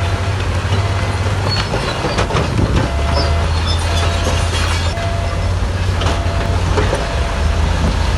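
Bulldozer's diesel engine running under load, a steady low rumble whose pitch shifts a few times, with scattered clanks and knocks from its steel tracks and the rock it pushes.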